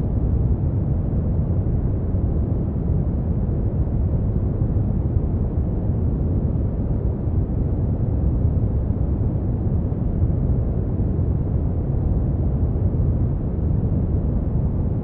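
Steady brown noise: a constant, deep rumbling hiss with most of its energy in the low end, unchanging throughout.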